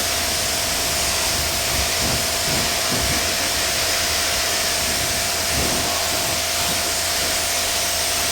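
Pressure washer running and spraying water, a steady loud hiss over a constant motor whine, as the car is rinsed.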